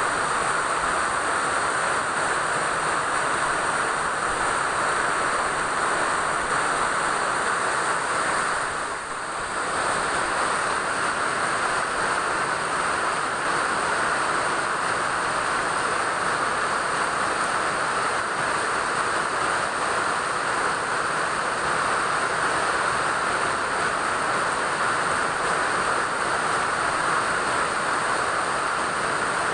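Steady rain falling, an even hiss that dips briefly about nine seconds in. A faint high steady tone sits under it for roughly the first eight seconds.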